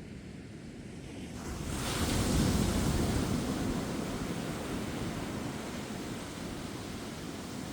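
Ocean waves on a beach: a wave breaks about a second and a half in, its rushing wash swelling quickly and then slowly fading.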